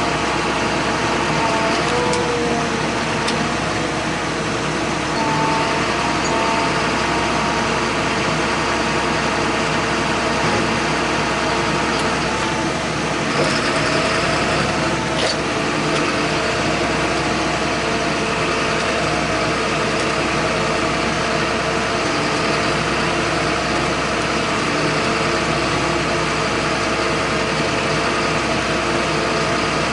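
John Deere 8100 tractor's six-cylinder diesel engine running steadily, heard from inside the cab, with a couple of faint clicks about halfway through.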